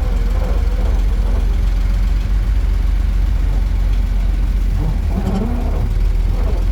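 Engine of a 1937 International truck running at low speed, a steady low drone.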